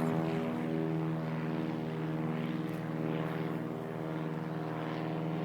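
Propeller airplane towing a banner, its engine giving a steady drone as it flies past.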